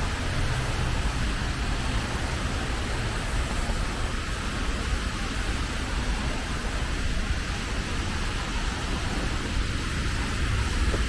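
Steady rushing hiss of rain and wet-road traffic, with a low rumble underneath.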